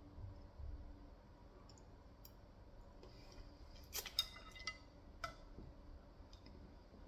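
Faint eating sounds: a few soft thuds, then a cluster of sharp clicks and light clinks about four to five seconds in.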